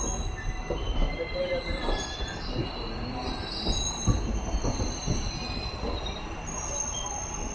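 Train coach wheels squealing in thin high tones, with irregular clacks as the wheels pass over rail joints and points while the train rolls slowly through the station yard.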